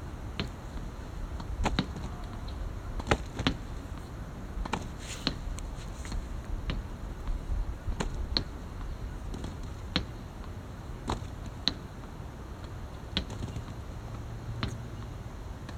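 Badminton rackets striking shuttlecocks in practice: sharp, irregular hits about once a second, some in quick pairs, over a low steady background hum.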